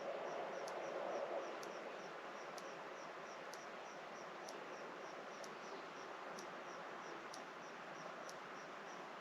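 An insect chirping steadily at about two high chirps a second over an evening rural background; a low hum fades out in the first second and a half.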